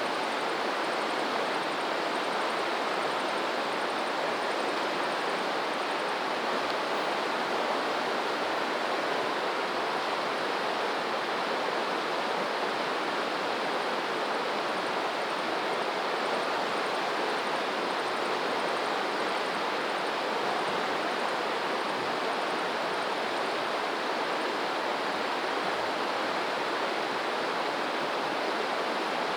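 Running water rushing steadily and evenly, as a forest stream or small waterfall does.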